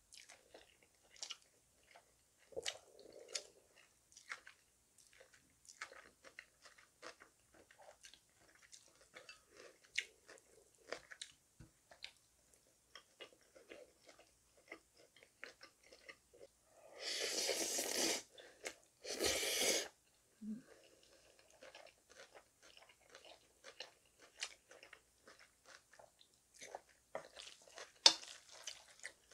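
Close-up mouth sounds of someone eating spicy cold naengmyeon noodles: steady chewing with many small wet clicks and smacks. Past the middle come two loud rushing sounds, each about a second long and a second apart.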